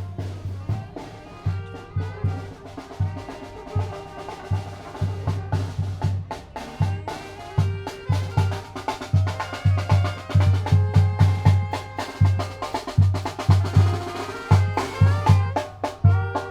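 Tamborazo band playing: a steady bass drum and snare beat under melody lines from brass and reed instruments.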